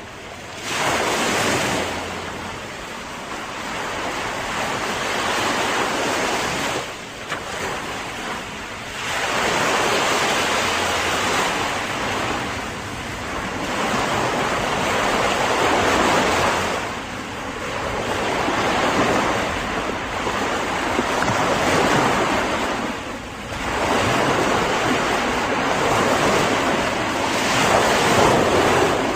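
Ocean waves breaking and washing up the shore, the surf swelling and ebbing every five to six seconds.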